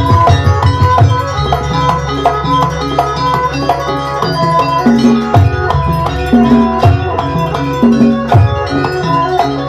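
Banyuwangi gamelan accompaniment for a barong dance: ringing metal gong-chimes and metallophones play a repeated melodic pattern over hand-drum strokes. Deep drum strokes fall about every second and a half in the second half.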